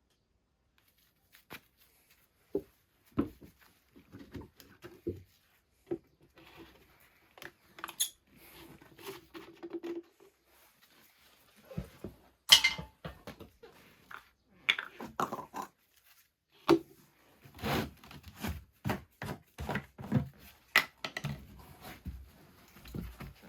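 Irregular knocks, clunks and short scrapes of hands-on handling work, unevenly spaced, with the sharpest knock about halfway through and a busier run of knocks near the end. No chainsaw is running.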